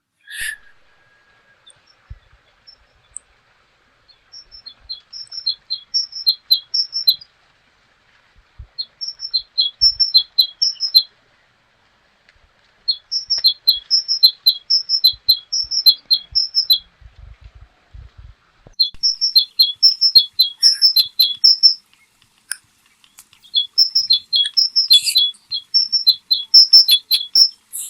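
A songbird singing: five phrases of rapid, high, clear chirping notes, each phrase lasting two to four seconds, with short pauses between them.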